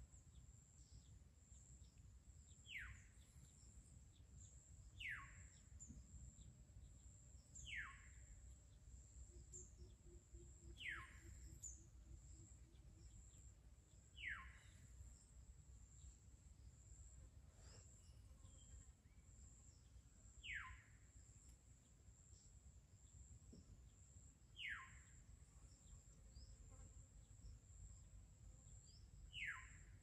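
Faint, steady high insect drone, with a bird's short falling whistle repeated eight times a few seconds apart.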